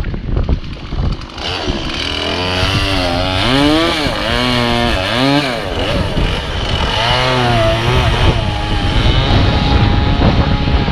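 Two-stroke chainsaw running at high revs and cutting into a downed tree, its engine pitch sagging under load and rising again twice.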